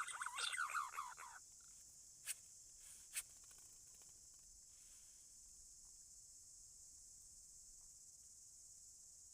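Green pigeon (punai) calls: many overlapping warbling whistles that stop abruptly about a second and a half in. Two sharp clicks follow about a second apart, then only a faint steady high hiss.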